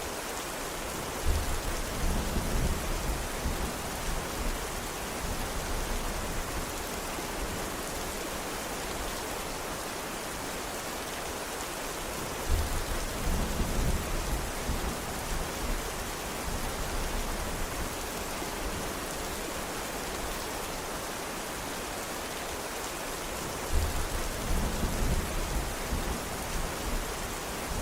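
Steady rain, with three low rumbles of thunder roughly ten seconds apart, each fading over a few seconds.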